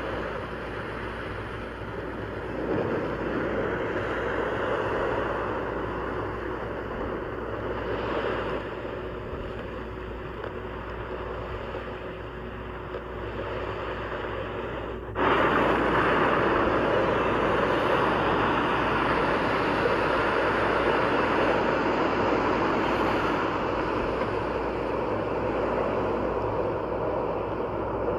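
Steady rumble and wind noise of a moving vehicle, which switches abruptly to a louder, similar rush of noise about halfway through.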